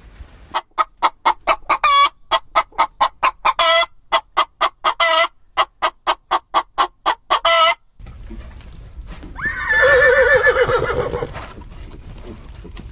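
Chicken clucking in a quick run of short clucks, about three or four a second, broken by a few drawn-out squawks, for about seven seconds. After an abrupt cut, one long wavering animal call follows over a low background hum.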